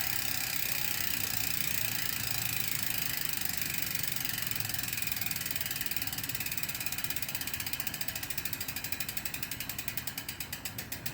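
PASAK 29-inch wheelset's freehub ratcheting as the wheel coasts. A fast, continuous buzz of clicks slows into distinct, wider-spaced clicks near the end as the wheel spins down.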